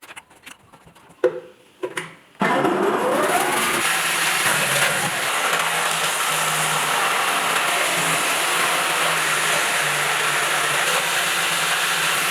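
A few knocks and clicks of handling, then an electric motor switched on: it spins up with a rising whine over about a second and then runs at a steady speed with a steady hum, the repaired motor on test.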